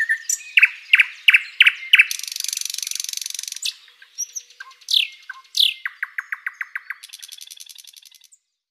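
A songbird singing: a few sharp falling chirps, then a buzzy trill, two more falling notes, a quick run of even notes and a second buzzy trill that fades near the end.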